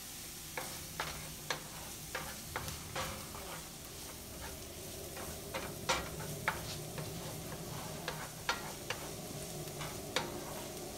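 Diced onion and garlic sizzling in hot vegetable oil in a nonstick skillet, with a wooden spoon stirring and clicking against the pan at irregular intervals.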